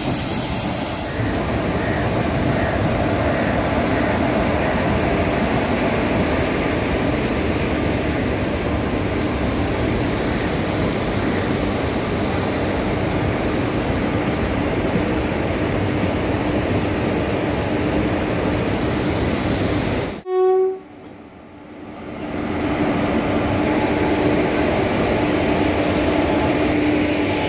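Passenger train coaches running past on the track, a steady rumble and rush of wheels on rails. About twenty seconds in the sound drops away, and a short horn toot is heard. The running noise then returns.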